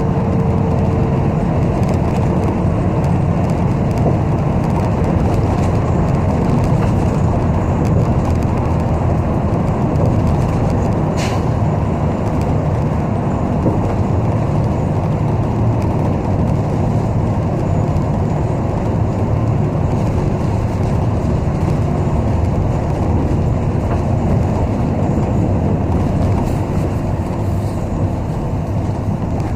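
Inside a city bus on the move: a steady rumble of engine and road noise. About eleven seconds in there is one brief sharp high sound.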